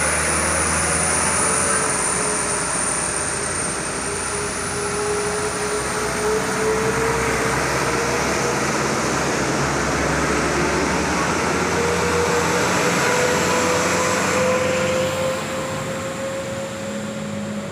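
Road traffic with trucks driving past: a steady rush of engine and tyre noise, with a whine that drifts slowly in pitch, easing off a little near the end.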